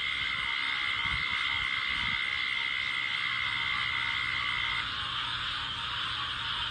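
Swamp chorus of crickets and frogs: a dense, steady insect hiss, with one high steady trill that stops about five seconds in and a couple of low frog croaks in the first two seconds.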